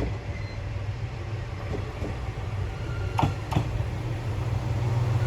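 Diesel railcar engine running with a steady low rumble that grows slightly louder near the end, and two short metallic clanks about three seconds in.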